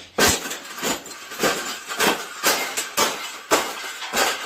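A small cage being folded and crushed: repeated sharp crunching, rattling strokes, about two a second.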